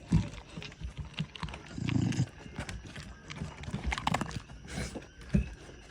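Dogs crunching dry kibble, with irregular clicks and crunches of the food and bowl, and a short low rumble about two seconds in.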